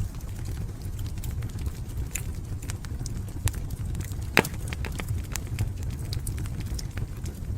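Wood fire in a fireplace crackling, with scattered sharp pops over a steady low rumble of the flames, one louder pop about four and a half seconds in.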